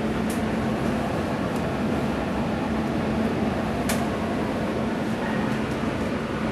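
Inside a moving NJ Transit commuter train coach: a steady rumble of the train running on the rails with a low hum, and a sharp click about four seconds in.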